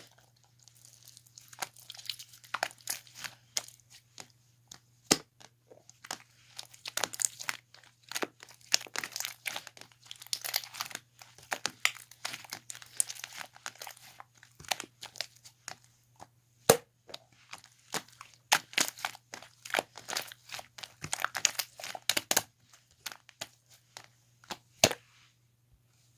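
Hands squishing and stretching slime, giving dense, irregular sticky crackles and pops with a few sharper snaps.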